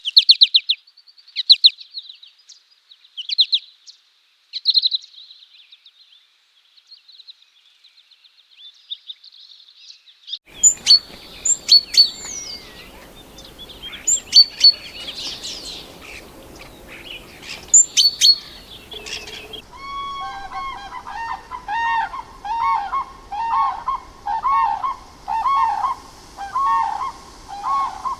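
Bird calls from three recordings in turn: quick high chirps and trills for about ten seconds, then high sharp calls over a light background hiss, then from about twenty seconds in a lower call repeated a little faster than once a second.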